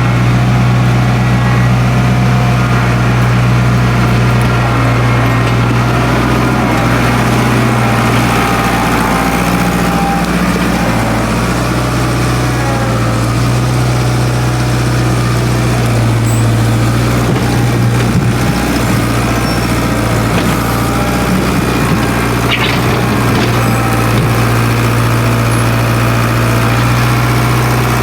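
International Harvester 270A backhoe's diesel engine running steadily on its rebuilt injection pump.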